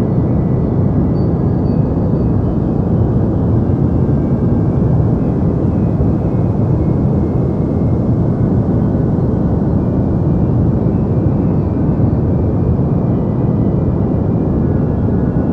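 Deep white noise: a steady, unchanging rush, heaviest in the bass, with little hiss on top.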